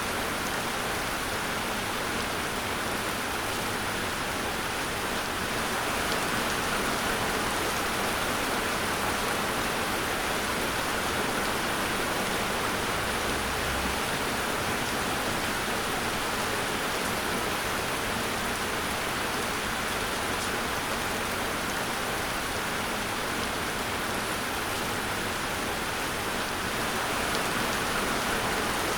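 Steady rain falling, a continuous even hiss of drops without thunder.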